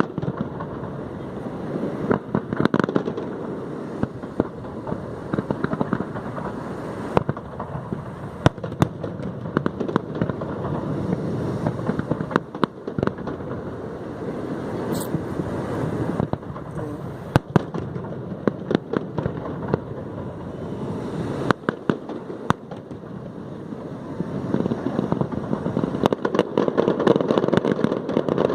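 Fireworks display: many sharp bangs and crackles of bursting shells over a continuous rumble, growing louder near the end.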